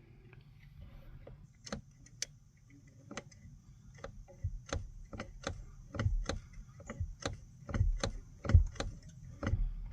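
Irregular metallic clicks and knocks of parts being handled and worked under a truck's dash, growing busier after about four seconds, over a faint steady high whine.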